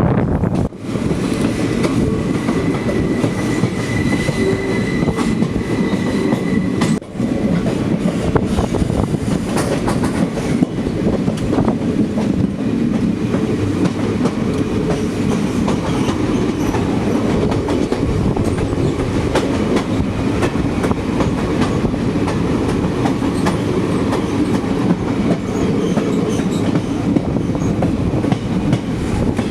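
Passenger train running, its wheels clattering over the track under a steady rumble, with a thin high squeal for a few seconds near the start.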